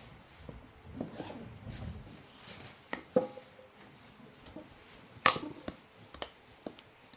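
Scattered sharp knocks and clicks at irregular intervals, the loudest about three seconds and five seconds in, from things being handled.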